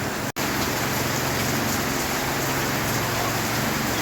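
Heavy rain falling steadily, a dense even hiss with a low steady hum underneath. The sound cuts out completely for an instant about a third of a second in.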